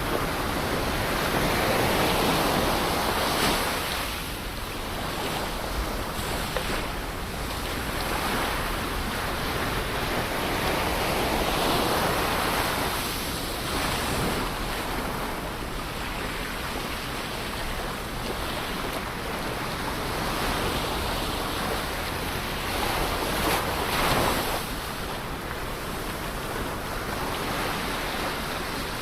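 Ocean waves washing onto a shore: a continuous surf hiss that swells and recedes, with louder surges about 2, 12 and 24 seconds in.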